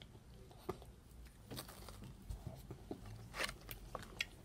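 Chewing and biting into a crunchy McDonald's apple pie: a scatter of irregular crunches and mouth clicks, the loudest about three and a half seconds in.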